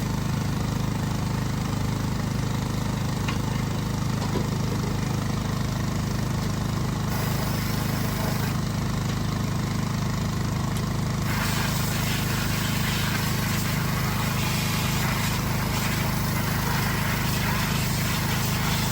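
Tractor engine running at a steady idle, with a little more hiss from about halfway through.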